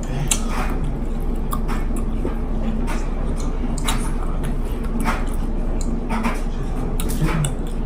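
Close-miked chewing of crunchy sweet pepper and rice: scattered sharp mouth clicks and crunches over a steady low hum.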